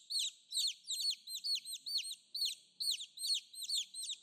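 Helmeted guineafowl giving alarm calls: a steady run of sharp, high chirping notes, about three a second, the sign of a flock on edge and ready to flush.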